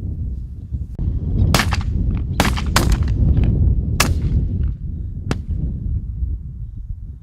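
Shotgun shots fired at flushed Hungarian partridge, about five in a few seconds, some of them close together, over a steady low rumble.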